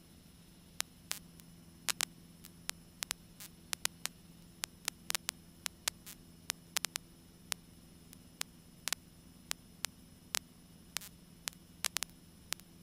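Faint electrical hum with irregular sharp static clicks and crackles, a few a second, on an aircraft intercom and radio audio feed between transmissions.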